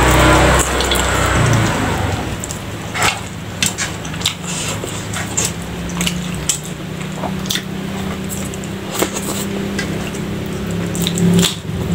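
Close-up eating sounds of a person eating rice and fried salted fish by hand: chewing with wet lip smacks and many sharp mouth clicks. Underneath is a steady low motorbike engine hum that grows louder near the end.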